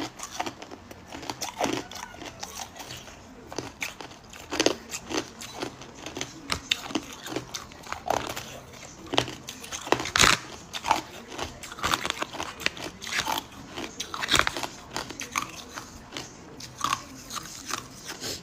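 Hard ice cubes being bitten and chewed close to the microphone: irregular sharp crunches and cracks as the ice breaks between the teeth.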